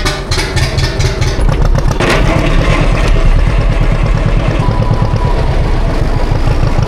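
John Deere tractor engine cranking with a run of rapid even strokes, catching about two seconds in, then running steadily.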